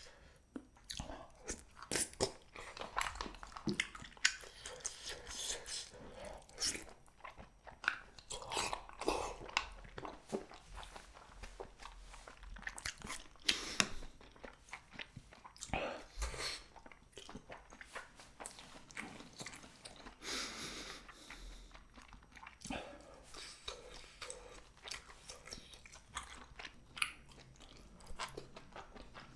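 Close-miked chewing and biting of spicy cheese jjimdak (Korean braised chicken), with many short irregular mouth clicks.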